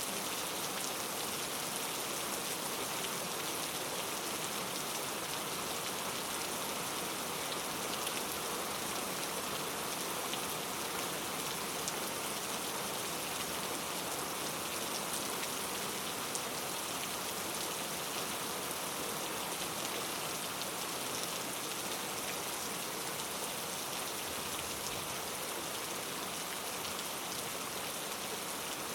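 Steady rain falling in a rainforest, an even hiss of many drops with scattered faint pattering ticks.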